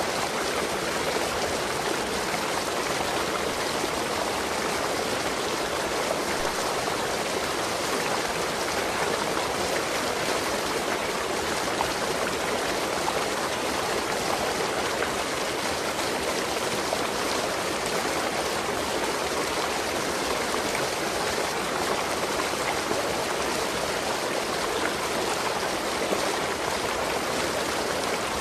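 Waterfall water rushing and splashing steadily into the pool below.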